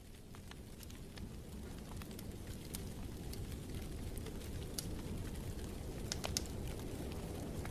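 Wood fire in a fireplace crackling, with scattered sharp pops over a low steady rumble of burning, fading in over the first few seconds.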